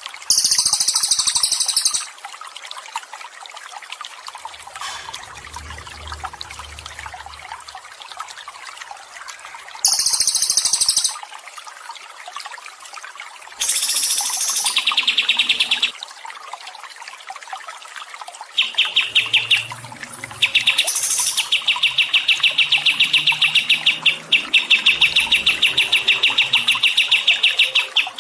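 Songbird song over a steady trickle of water: three short bursts of high, fast chirping in the first half, then a long, fast run of repeated notes through the second half.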